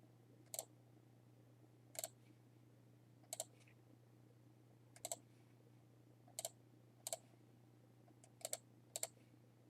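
Computer mouse clicking about eight times, a second or so apart and some in quick pairs, over a faint steady low hum.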